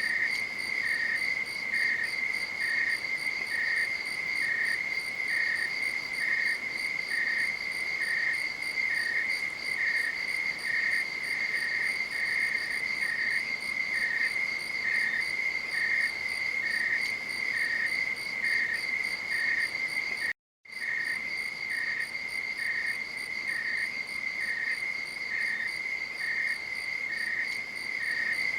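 Crickets chirping at night: one steady high trill, with a second cricket pulsing evenly at about two chirps a second. The sound cuts out completely for a moment about two-thirds of the way through.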